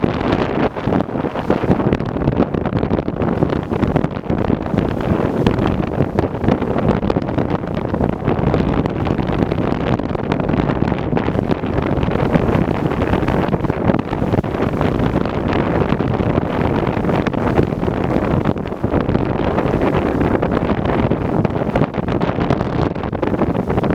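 Strong, gusty wind buffeting the microphone: a loud, continuous rushing noise that wavers constantly in level.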